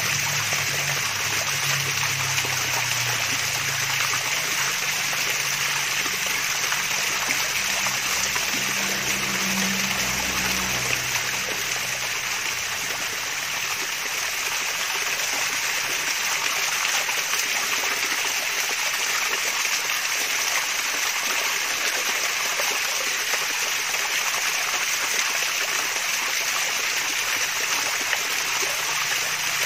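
Water from a mini waterfall splashing and trickling steadily. A low hum underneath fades out about ten seconds in.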